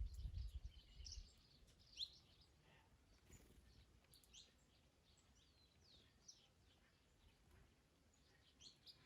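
Small birds chirping and twittering faintly, with many short quick high notes, some sliding in pitch. A low wind rumble fades out about a second in.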